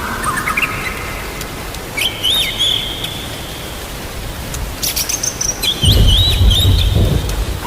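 Songbird whistling in short sliding phrases over a steady hiss of rain, with a low rumble of thunder about six seconds in.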